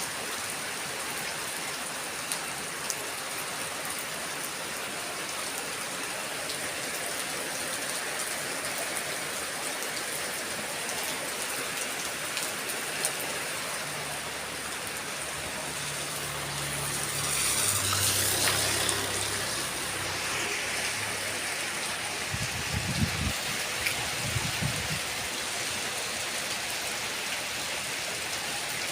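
Heavy rain falling steadily, a dense even hiss, which swells louder for a couple of seconds about two-thirds of the way through. A few low thuds follow near the end.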